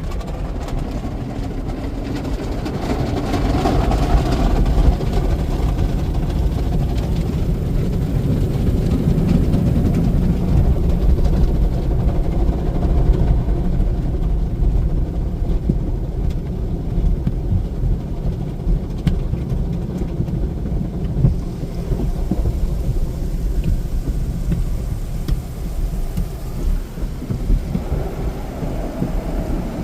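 Tunnel car wash heard from inside the car: wash brushes beating on the body and water spraying over it, making a dense, continuous low rumble with a rushing, rain-like hiss.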